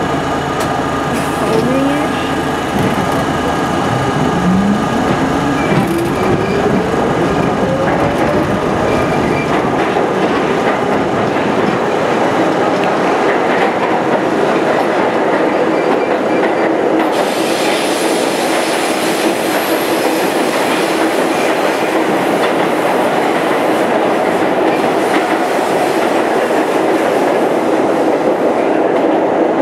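R32 subway car running in the tunnel: a whine rises in pitch over the first several seconds as the train picks up speed, over a steady rumble and clatter of wheels on rail. From about halfway through, a higher hiss and squeal of the wheels joins in.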